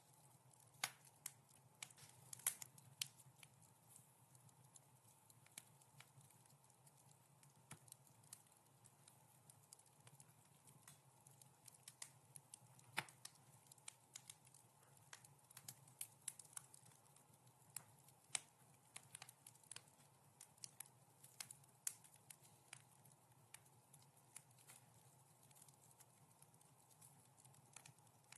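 Wood fire crackling in a fireplace: irregular sharp snaps and pops, a few much louder than the rest, over a soft steady low rumble.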